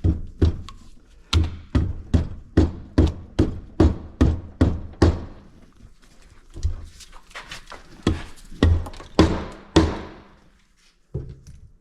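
A hammer knocking repeatedly on engine parts during a teardown: a steady run of heavy knocks about two to three a second, a short pause, then a slower run of blows near the end.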